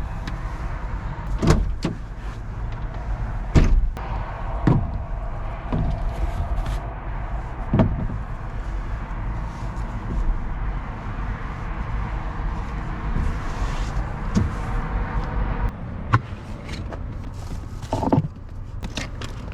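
A vehicle's steady low rumble with several sharp knocks and thumps, like doors or things being handled. The rumble drops off about three-quarters of the way through.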